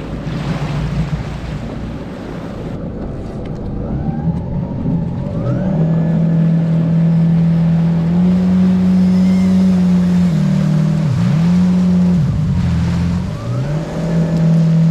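Boat engine running under way: a steady engine note builds about five seconds in, climbs higher a few seconds later, then dips briefly twice near the end as the throttle is eased and opened again, over the rush of water and wind.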